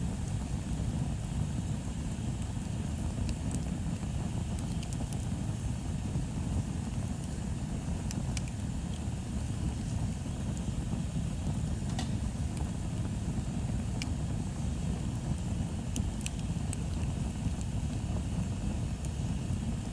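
Wood bonfire burning: a steady low rumble with scattered sharp crackles and pops now and then.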